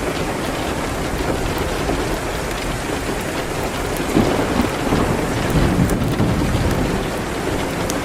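Steady rain on a window, with the faint crackle of a wood fire in a fireplace. A low rumble swells about halfway through and fades again.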